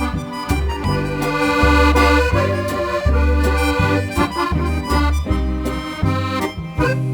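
Accordion playing a lively instrumental melody over a regular bass line.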